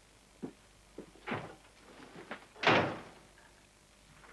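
A few short knocks and thuds, then one loud bang like a slamming door near three seconds in.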